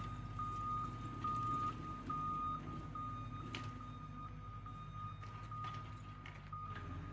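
Reversing alarm beeping on a working machine pulling the power rake: a high single-pitch beep repeating about twice a second over the steady low engine rumble, the beeps growing fainter about halfway through.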